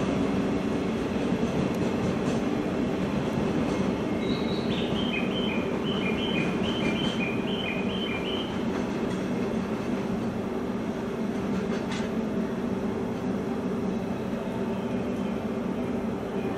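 An EF65 electric locomotive and a Shiki 1000 heavy-duty freight car rolling slowly away over station pointwork. A steady low rumble of wheels and running gear slowly fades as the train draws off.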